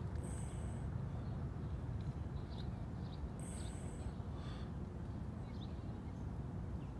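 Outdoor ambience: a steady low rumble, with faint short bird chirps scattered through.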